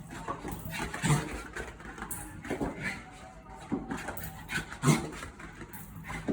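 A Bichon Frise dog making several short vocal sounds. The loudest come about a second in and again near five seconds.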